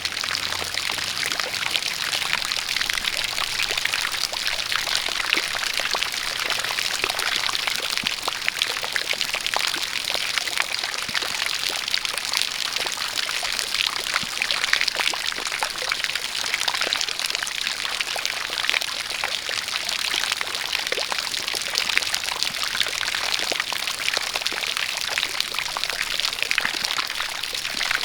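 A spout of water pouring and splashing steadily, with rain pattering around it in a dense, even hiss of many small drops.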